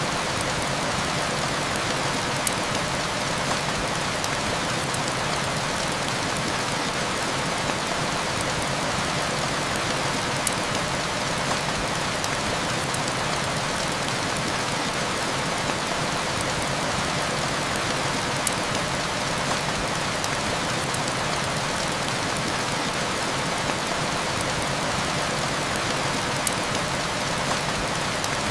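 Heavy rain falling steadily, with a few sharp crackles of a wood fire now and then.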